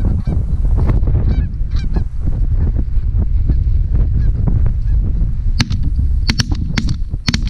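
A flock of geese honking, many short calls overlapping, over a steady low rumble. A few sharp clicks come near the end.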